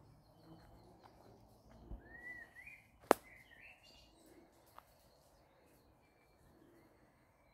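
A songbird sings a short warbling phrase about two seconds in, with faint chirps from other birds. Just after the phrase comes one sharp, loud crack, with a couple of fainter clicks before and after it.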